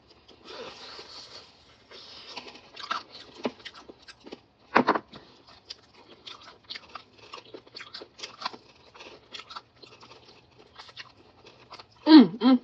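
Close-miked crunching and chewing of crispy fried food, with irregular crackly bites and a louder crunch about five seconds in.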